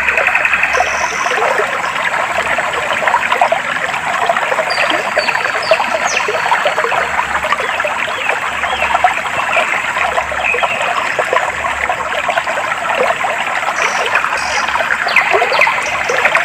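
Clear stream water flowing and trickling steadily, with short high bird chirps scattered over it.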